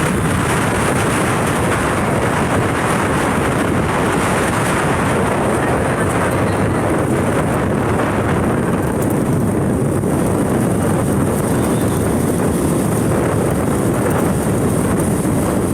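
Steady wind rushing over the microphone of a moving motorcycle, with the bike's running and road noise underneath.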